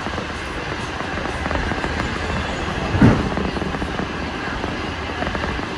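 Commuter train running, heard from inside the carriage: a steady rumble and rush of the wheels on the rails, with one loud knock about three seconds in.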